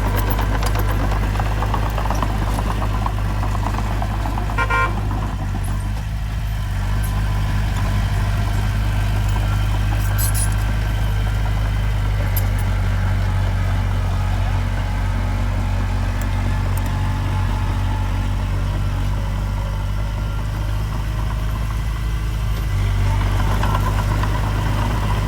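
Heavy diesel engine of earthmoving machinery running steadily, a deep continuous drone. A short horn-like toot sounds about five seconds in, and a few sharp clicks come around ten seconds in.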